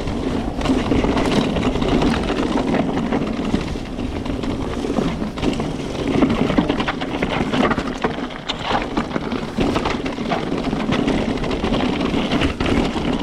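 Electric mountain bike with a Bosch Performance CX motor descending a rough, rocky trail without pedalling: continuous dense chattering and rattling from the bike over tyre rumble and wind on the microphone. The chatter is the coasting rattle the new Bosch motor is talked about for on uneven ground.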